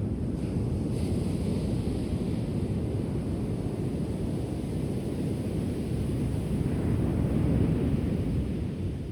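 Ocean waves washing onto a shore, a steady low rush that swells a little louder near the end, with wind noise on the microphone.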